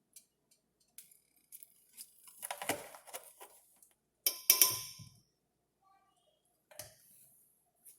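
Kitchen utensils clinking and tapping: a spoon and containers knocking together, with one louder ringing clink about four and a half seconds in.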